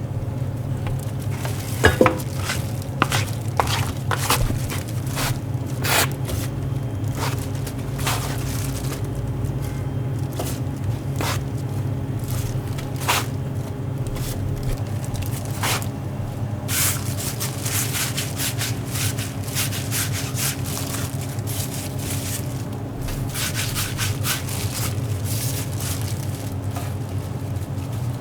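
Food frying in a deep fryer of oil, a sizzling hiss that grows brighter in the second half, with utensils scraping and clicking now and then over a steady low hum.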